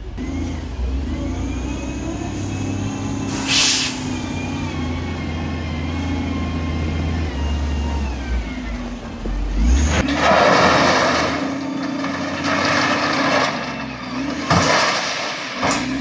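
Diesel engine of heavy construction machinery running steadily, with a short loud air hiss about three and a half seconds in. In the second half come three loud rushing bursts.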